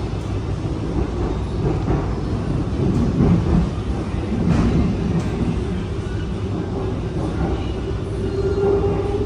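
SMRT R151 metro train running on the track: a steady low rumble, with a steady hum coming in and growing stronger near the end.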